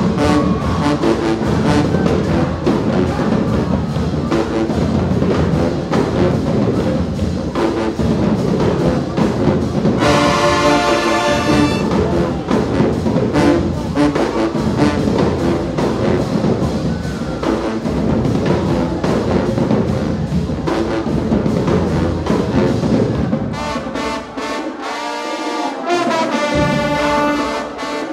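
Marching band playing: brass with drums hitting throughout. About ten seconds in the horns hold a bright chord for a couple of seconds, and near the end the drums drop out for a few seconds while the horns play on.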